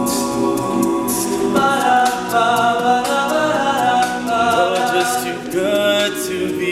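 A cappella men's vocal group singing the introduction, holding sustained chords that change about a second and a half in and again near the end, with vocal percussion ticking high above.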